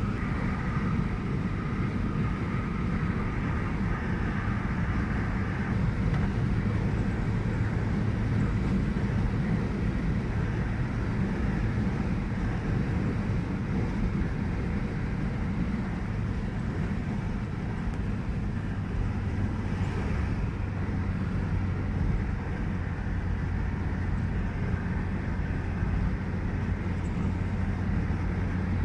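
Steady road noise of a car driving along a highway: an even drone of engine and tyres with a low hum.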